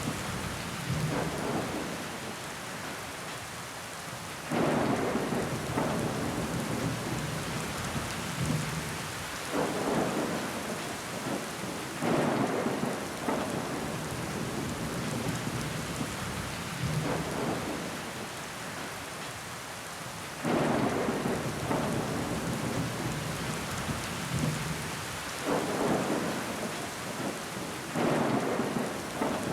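Steady rain pattering on window glass, swelling in sudden surges every few seconds that then fade back.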